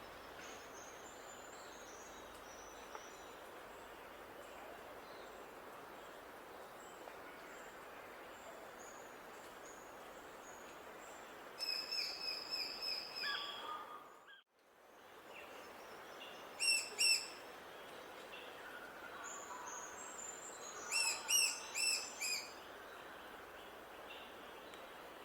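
Small songbirds singing over a steady background hiss. There are faint high chirps at first, then louder rapid series of repeated notes about halfway through and again near the end. The sound fades out briefly in the middle.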